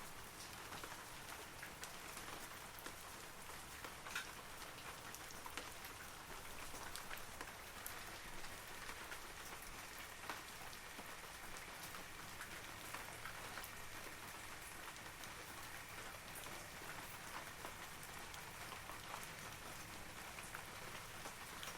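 Steady rain falling on forest trees, a soft even hiss dotted with the patter of individual drops.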